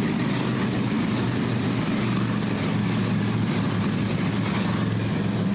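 Several Harley-Davidson police motorcycles riding in formation, their V-twin engines running steadily.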